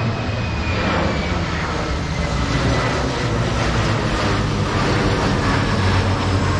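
Airplane flying low overhead: loud, steady engine roar and rumble, with a high whine that slowly drops in pitch as it passes.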